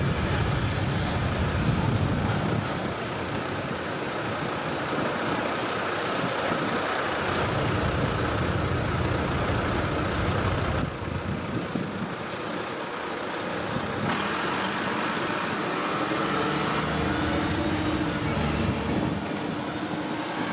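Freight train rolling past at a level crossing: a steady noise of steel wheels on the rails, dipping briefly about halfway through.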